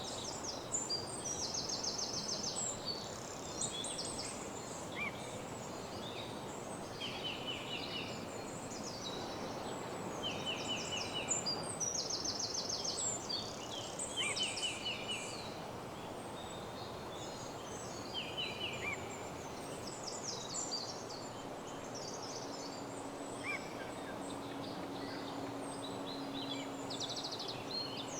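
Several woodland songbirds singing, with repeated short, rapid trills and chirps, over a steady background rush. A faint steady low hum comes in about three-quarters of the way through.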